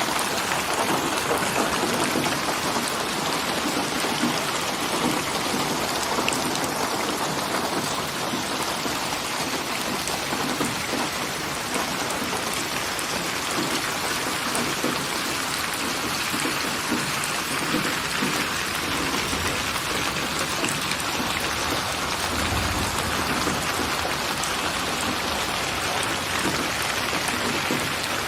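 Steady rain falling, an even hiss of many drops on surfaces, with a brief low rumble about three quarters of the way through.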